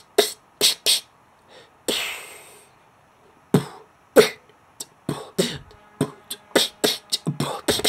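Beatboxer's inward P snares: a quick run of short, sharp sucked-in snaps, with one longer hissing inward breath about two seconds in, the tongue shaping the sibilance of each.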